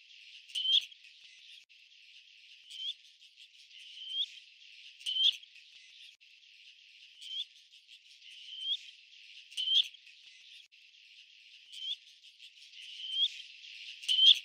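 Black-necked grebe calling: a short rising whistle repeated every one to two seconds, about ten times.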